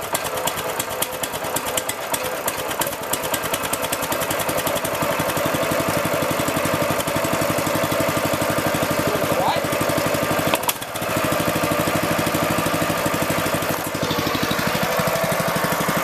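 Massimoto MB200 mini bike's small single-cylinder four-stroke engine running just after a cold pull-start. It goes unevenly for the first few seconds, then settles into a steady idle, with a brief stumble about ten and a half seconds in.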